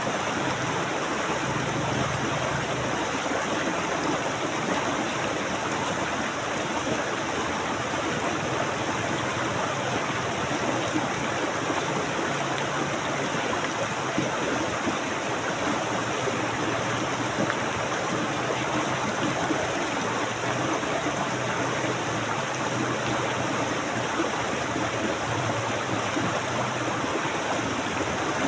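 Flowing water running steadily, an even unbroken rush with no separate splashes or breaks.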